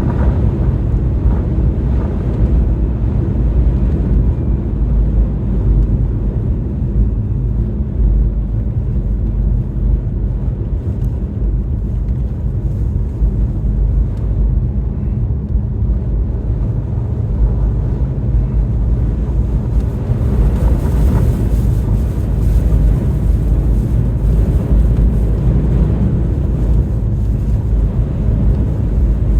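Steady low rumble of a car driving, tyre, engine and wind noise with a faint steady hum.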